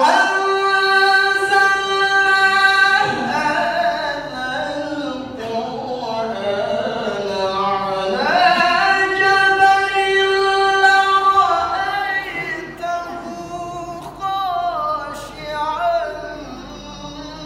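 A male Quran reciter (qari) chanting in a high, melodic voice. He holds long sustained notes and breaks into wavering, ornamented melismatic turns.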